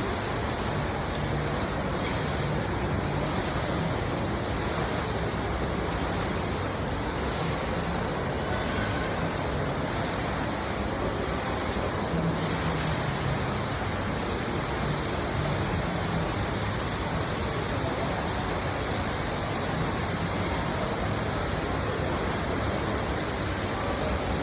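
Alangkarn indoor waterfall: a steady, even rush of falling water.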